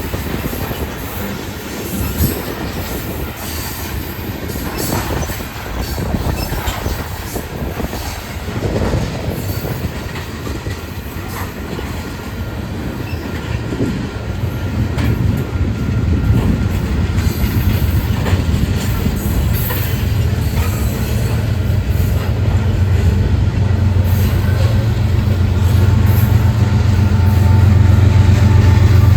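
Union Pacific mixed freight train's cars rolling past, wheels clattering over the rail joints. A low steady drone comes in about halfway and grows louder toward the end.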